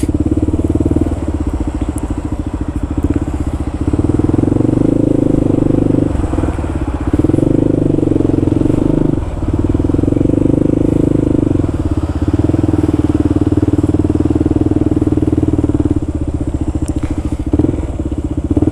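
Kawasaki KLR650's single-cylinder four-stroke engine running steadily while the motorcycle is ridden, its note dipping briefly a few times.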